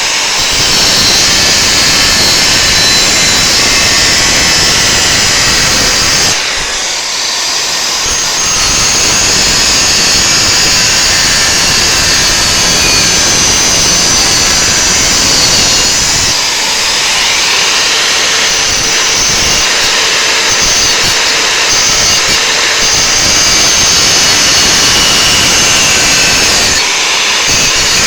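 Angle grinder running against steel, a steady high whine with the grinding noise, easing off briefly three times as the disc is lifted and set back on the work.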